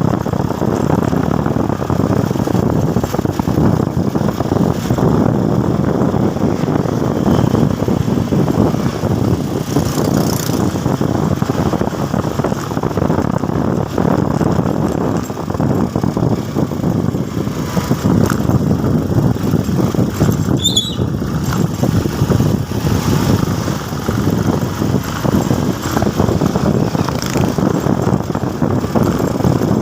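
A motorcycle riding along, its engine mixed with a steady rushing noise, with a brief high chirp about two-thirds of the way through.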